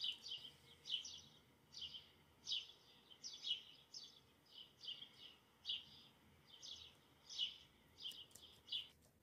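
A small bird chirping over and over: short, high, downward-sliding chirps, about two a second, faint, stopping shortly before the end.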